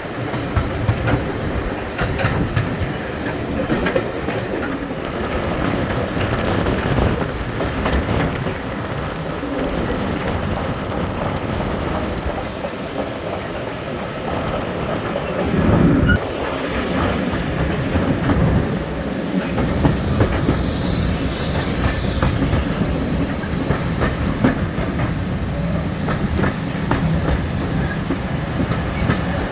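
A train running on the rails, its wheels clicking over the rail joints, with a brief high-pitched squeal about twenty seconds in.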